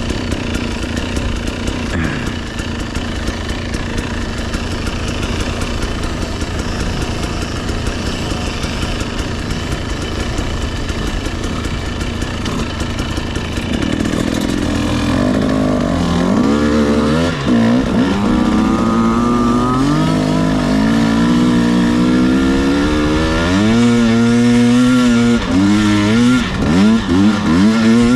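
Dirt bike engine under way, running steadily with a rush of wind and riding noise. From about halfway it revs up and down again and again as the throttle is worked, with quick short blips near the end.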